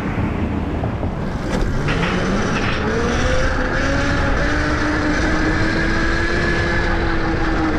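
Electric dirt bike's motor whining, rising in pitch as the bike speeds up from about two seconds in and then holding steady, over wind and tyre rumble.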